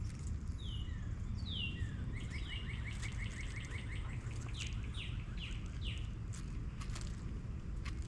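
Songbird singing: several clear downslurred notes, then a rapid trill about two seconds in, then more falling notes, over a steady low rumble.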